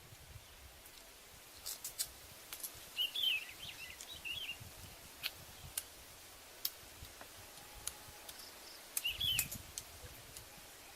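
Outdoor ambience with scattered sharp clicks and snaps and two short bouts of quick chirping bird calls, about three seconds in and again near nine seconds.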